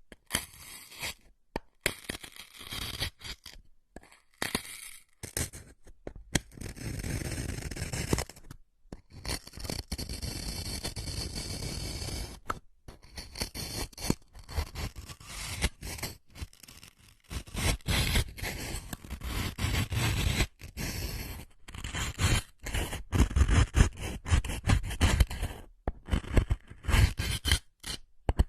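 Close-miked scraping and scratching sounds in short irregular strokes, with two longer steady scrapes a few seconds in and quicker, louder strokes in the second half.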